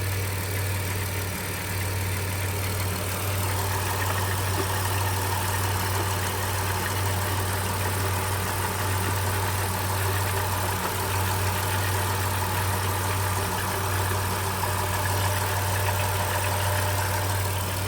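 2010 Dodge Grand Caravan's 3.3-litre V6 engine idling steadily.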